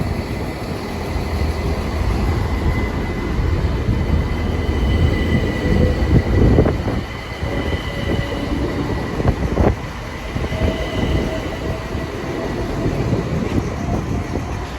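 Southeastern Class 375 Electrostar electric multiple unit pulling out of the station: a steady rumble of the train with the thin whine of its traction motors. Two sharp knocks from the wheels come about six and a half and nine and a half seconds in.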